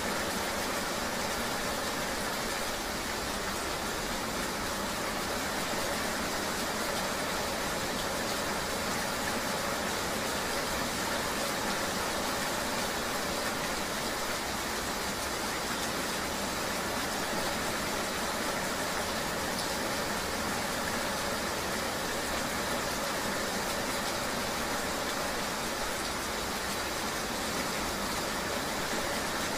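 Steady rainy-ride ambience: an even hiss of rain and a running vehicle, with no distinct events.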